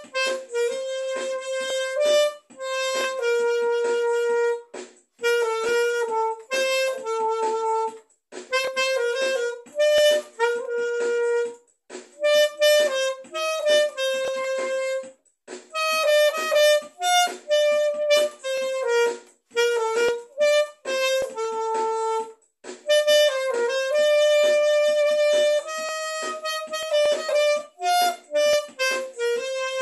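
Solo harmonica playing a slow song melody in short phrases, each followed by a brief pause, with no accompaniment.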